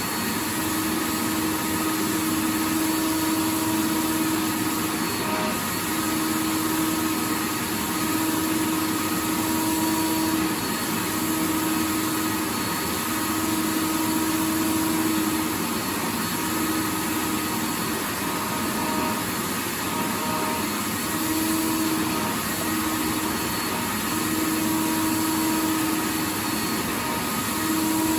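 Vacuum cleaner running steadily: an even, full hiss with a low hum whose tone drops out and returns every few seconds.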